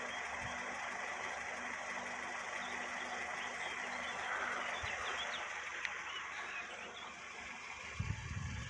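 Steady background noise with a faint hum, with a few faint short high chirps scattered through it and a low rumble near the end.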